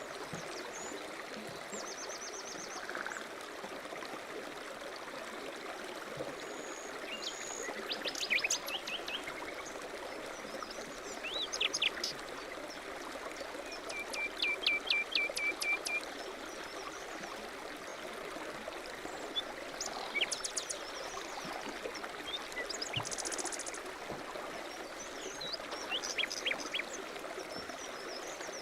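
A stream flowing steadily, with small birds chirping and trilling over it in several short bouts, the longest a run of rapid repeated notes about halfway through.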